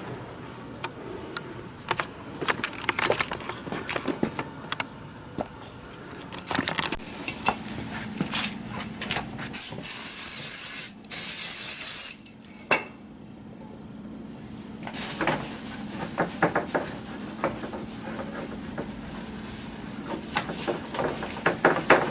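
Aerosol spray can spraying in two bursts about ten seconds in, each about a second long, with scattered clicks and knocks of handling before and after.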